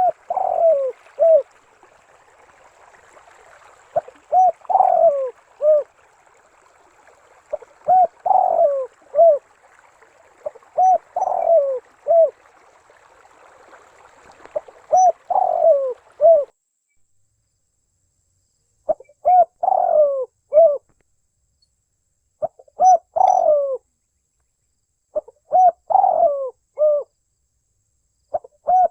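Spotted dove (tekukur) cooing: a repeated phrase of several short notes, about one every three to four seconds. A faint hiss behind the calls drops away about halfway through.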